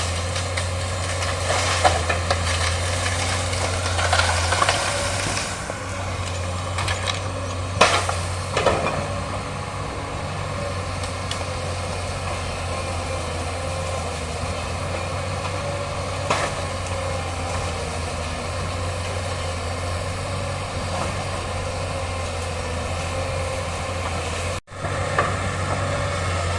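Excavator's diesel engine running steadily with a deep hum as it works, with a few sharp cracks or knocks now and then, the loudest about eight seconds in. The sound cuts out for a split second near the end.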